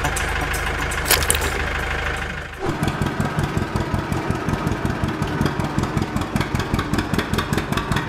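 A tractor engine running: a steady hum at first, then after a short dip about two and a half seconds in, a low, even chugging of several beats a second.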